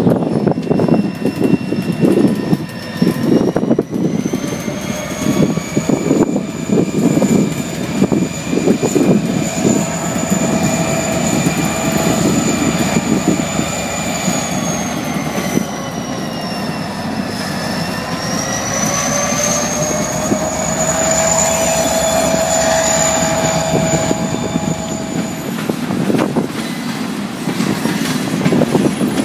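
Freight train led by Wheeling & Lake Erie EMD SD40-2 diesel locomotives, with 16-cylinder two-stroke EMD 645 engines, passing: engines running and wheels knocking over the rails. A high whine sounds in several pitches at once, dips in pitch about halfway through, climbs again and stops a few seconds before the end.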